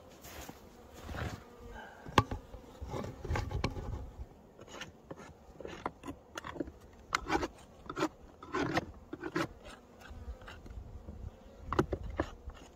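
Honeybees buzzing at a hive, broken by repeated short knocks and scrapes.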